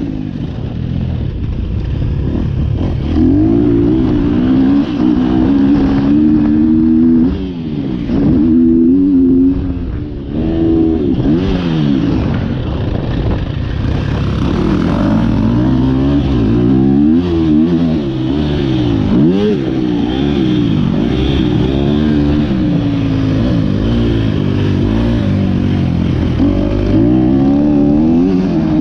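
2023 KTM 250 SX-F motocross bike's single-cylinder four-stroke engine through an Akrapovic Evolution Line exhaust, revving up and down over and over as the throttle is opened and closed.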